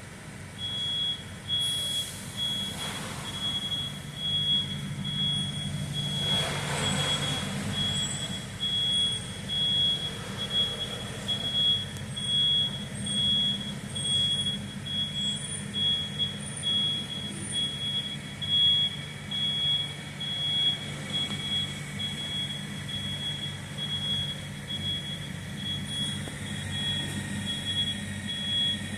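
A high-pitched electronic beep repeating rapidly at one steady pitch, an annoying noise played at the jaguars, over a low steady hum.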